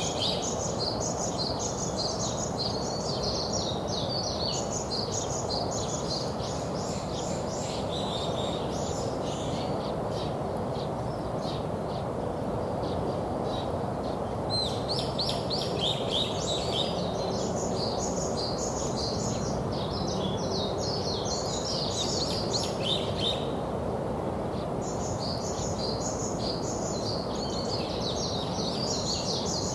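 Songbirds chirping in long bouts of rapid high notes, with short pauses about twelve and twenty-four seconds in, over a steady low background rumble.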